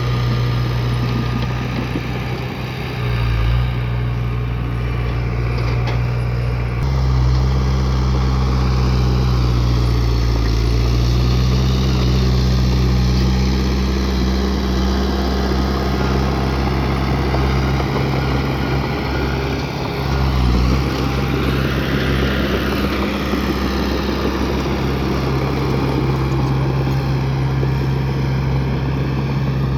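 Bulldozer's heavy diesel engine running while it works, its note stepping up and down several times as the load and revs change.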